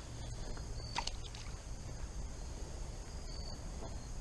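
Faint outdoor creek-side ambience: a low steady rumble with a few small clicks and a brief high chirp about a second in and again near the end.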